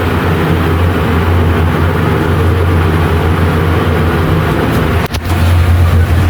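Noisy ventilation fan in a Mitsubishi elevator car running with a loud, steady hum and rushing air, broken by a brief dip about five seconds in.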